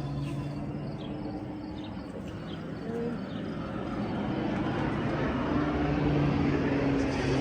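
Low-flying crop-dusting plane passing overhead, its engine a steady drone that grows louder toward the end.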